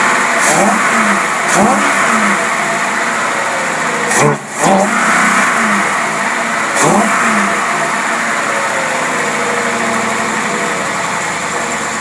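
An engine running on a Holley marine carburetor is blipped quickly about four times, each rev rising and falling back, then settles into a steady run. The quick throttle response is the off-idle operation that is almost perfect.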